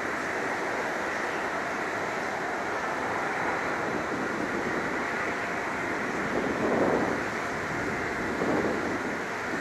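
Boeing 737-800's CFM56 jet engines running steadily, with wind buffeting the microphone and swelling twice in the second half.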